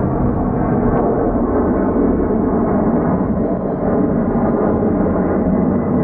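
Jet engines of a large widebody airliner at high power, a loud, steady low rumble.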